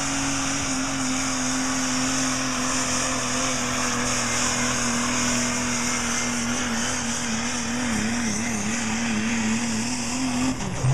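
Diesel pickup truck engine at full throttle pulling a weight sled. The engine pitch is held high, sags slowly and wavers over the last few seconds, then drops away near the end as the pull ends.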